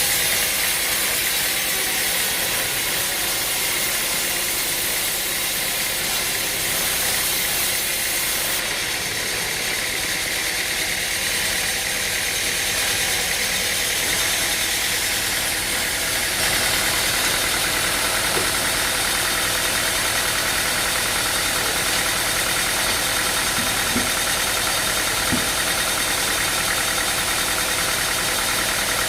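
Engine-driven machinery running steadily, a little louder about halfway through.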